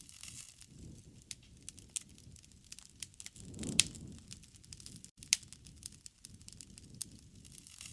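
Wood fire crackling, with irregular sharp pops over a low rush of flames; the flames swell and a loud pop snaps a little before the middle.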